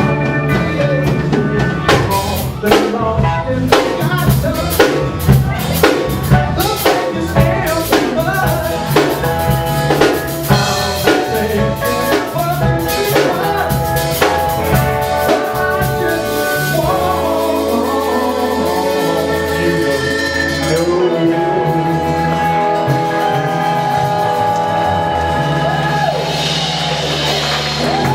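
Live rock band playing, with loud, evenly spaced drum-kit hits and fills in the first third. Partway through, the drums drop out and the band holds sustained chords over a steady bass note, with a cymbal wash near the end as the song closes.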